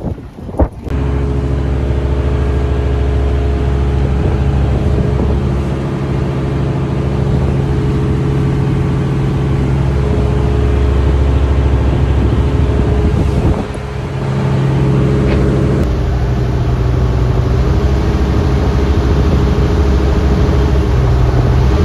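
Engine running at a steady speed: a loud, low drone that holds one pitch, with a brief dip about 13 seconds in.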